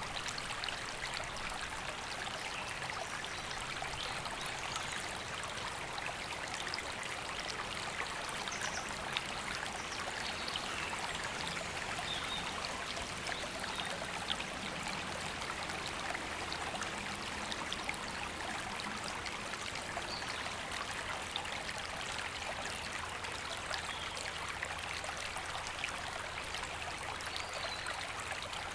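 A river flowing, a steady, even rushing of water. Now and then a faint bird call chirps above it.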